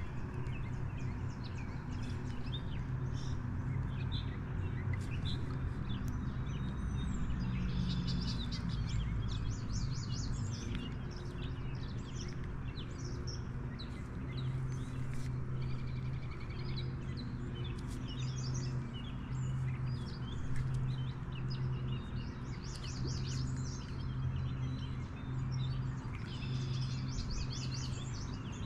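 Small birds chirping and singing, with a few quick trills, over a steady low hum.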